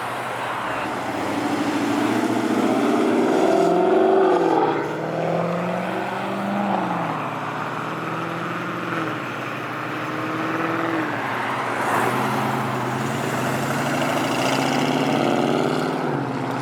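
A car engine revving as it pulls away. Its pitch climbs and falls several times in the first half, then runs lower and steadier.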